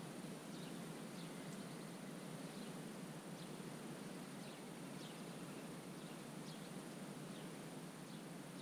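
Faint wetland ambience: small birds give short, high chirps at irregular moments over a steady soft hiss, with a thin steady high tone behind.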